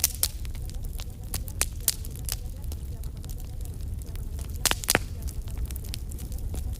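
Wood fire crackling in a fireplace: irregular sharp pops and snaps over a steady low rumble, with a pair of louder pops close together near the end.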